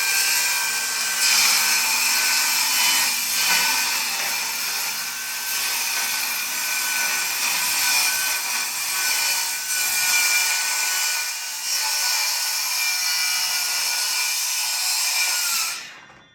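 A small motor or power tool running steadily, a continuous whirring hiss with faint high whining tones, cut off abruptly near the end.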